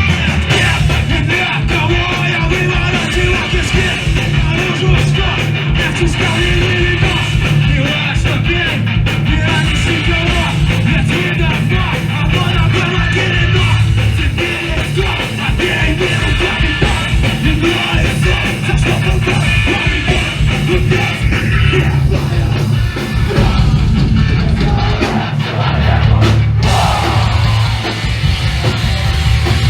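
Live punk-hardcore band playing loud and fast: distorted guitars and pounding drums with yelled vocals, heard from the crowd.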